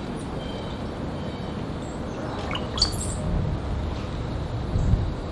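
House finch giving a few short, high chirps about halfway through, over a steady low rumble that swells near the end.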